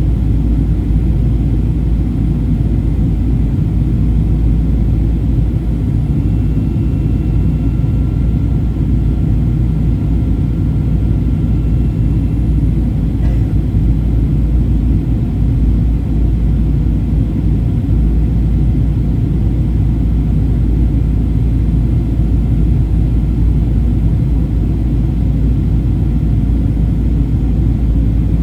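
Steady low rumble inside the cabin of a Boeing 737-800 in flight: its CFM56-7B jet engines and the airflow over the fuselage, with no change in level.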